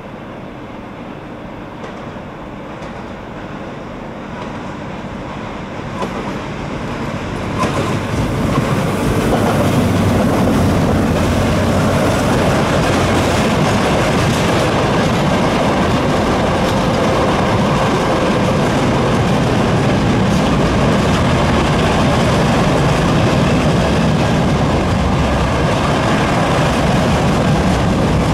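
Freight train hauled by an ER20CF diesel locomotive drawing near, growing louder over the first eight seconds. Its wagons then roll past in a loud, steady rumble.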